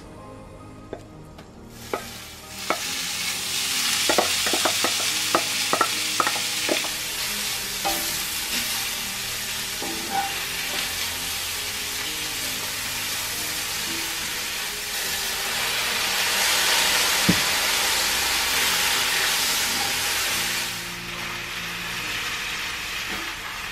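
Seasoned siraegi (dried radish greens) sizzling as it is stir-fried in a frying pan, with a spatula clicking and scraping against the pan. The sizzle sets in a couple of seconds in, after a quiet start, and swells for a few seconds near the end before easing off.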